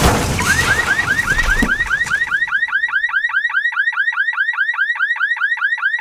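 A car alarm going off: a rapid rising chirp repeated about five times a second without a break. For the first couple of seconds it is overlaid by the fading noise of a crash, the microwave smashing onto the car's windshield.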